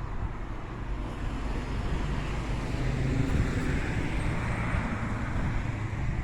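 Outdoor rushing noise with a heavy low rumble, like wind or traffic, and a hiss that swells in the middle and eases off near the end.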